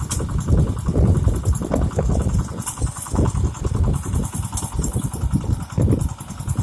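Mitsubishi tractor's engine running steadily, a low pulsing sound with a fast, even rhythm.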